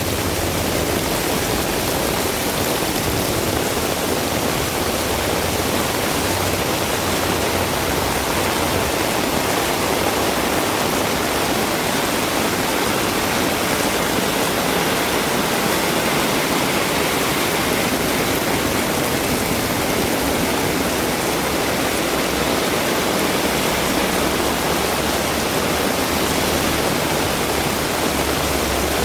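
Heavy rain pouring steadily, an even hiss with no breaks. A low rumble comes in right at the end.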